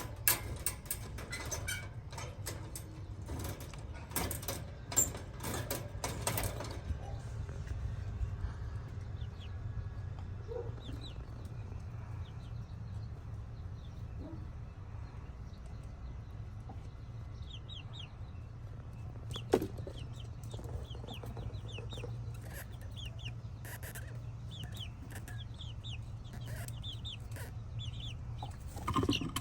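Backyard chickens clucking, with short high peeps scattered through the middle and later part. A run of sharp taps fills the first six seconds or so, a single knock comes about two-thirds of the way in, and a steady low hum runs underneath.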